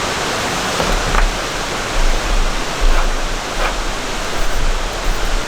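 Steady hiss of rain falling, with a few light drip taps and uneven low rumbles underneath.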